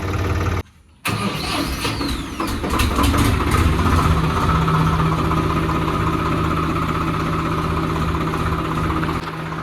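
Swaraj 735 FE tractor's three-cylinder diesel engine running, cut by a brief dropout just under a second in. It settles into a steady running note from about four seconds on.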